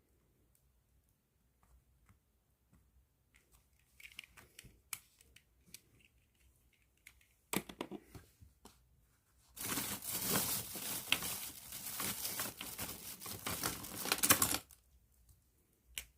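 Plastic bag crinkling and rustling, loud and continuous for about five seconds in the second half, after a few faint scratches and one sharp rustle.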